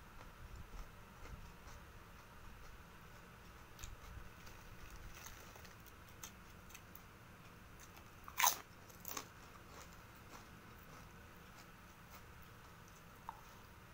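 A person chewing a mouthful of fried rice, with soft crunching and small mouth clicks. There is a sharp click about eight and a half seconds in and a smaller one just after.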